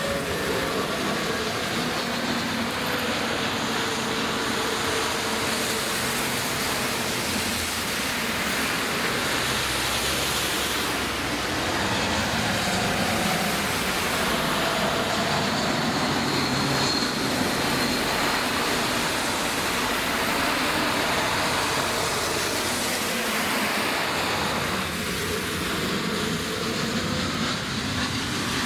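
Jet airliner passing on approach: a steady roar carrying faint shifting engine tones that swells a little midway, over the hiss of heavy rain.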